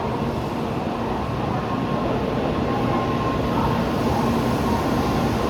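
Shinkansen bullet train moving along the station platform, a steady rumble with a faint humming tone.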